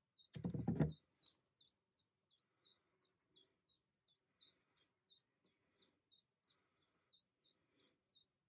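A small bird calling over and over: short, high chirps at about three a second, faint and evenly spaced. A brief, louder low sound comes about half a second in.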